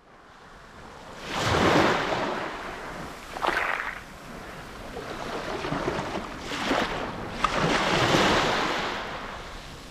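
Sea waves breaking and washing up a sandy beach, swelling and falling away in several surges.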